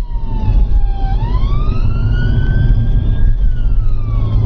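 Police car siren on a slow wail: its pitch falls, rises over about two seconds, then falls again, over the steady low rumble of the car's engine and road noise.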